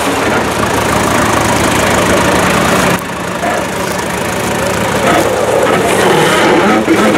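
Off-road vehicle's engine running steadily under a rough, uneven noise, dipping briefly about three seconds in.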